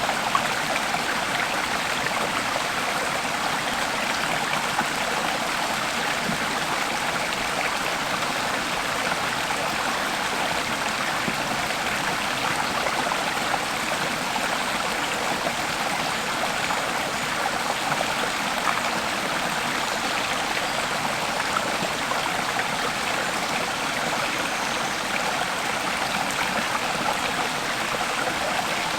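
Water babbling steadily over stones in a small stream, an even unbroken rush.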